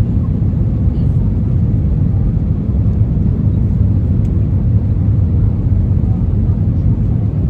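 Airliner cabin noise: a loud, steady, low rumble of the engines and airframe heard from inside the passenger cabin, with no distinct knocks or changes.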